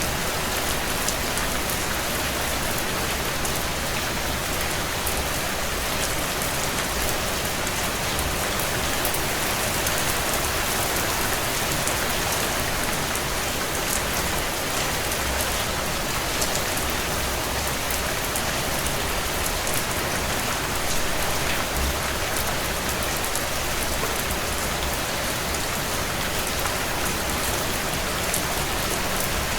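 Steady heavy rain falling on window panes, an even hiss, with faint scattered crackles from a wood fire in a stone fireplace.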